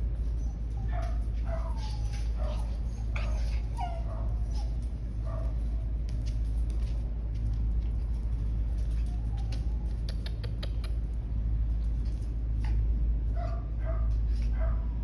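Dogs playing, giving short high yips and whines in bursts from about a second in until about five seconds, then again near the end, over a steady low rumble.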